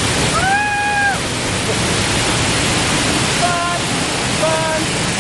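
Waterfall pouring down, a really loud, steady roar of water heard from right behind the falling curtain.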